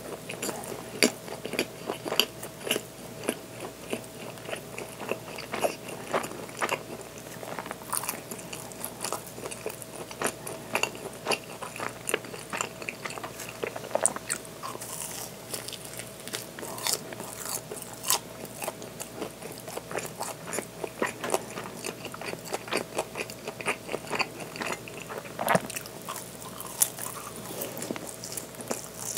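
Close-miked eating sounds of a person biting and chewing soft bread: a steady run of wet mouth clicks and smacks, with a louder bite about halfway through.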